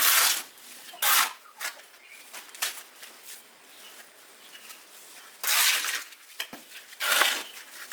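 Repeated short scraping or rasping strokes, each about half a second long, at irregular intervals, with faint ticks between them.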